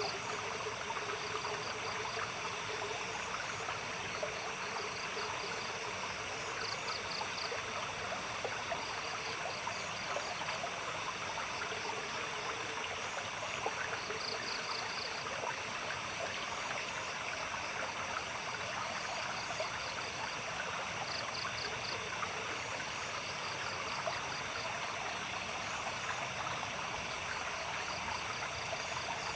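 Running water of a small stream, splashing and trickling steadily, under a constant high chirring of night insects. A short burst of rapid pulsing chirps recurs about every seven seconds.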